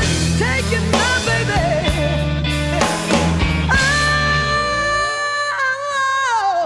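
Blues-rock band playing, with bending, sustained lead notes over bass and drums; about five seconds in the band drops out and a held note slides down in pitch as the song winds to its end.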